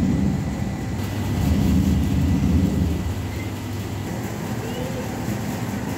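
Heavy rain falling steadily on rooftops and brick walls, with a low rumble that swells twice in the first half.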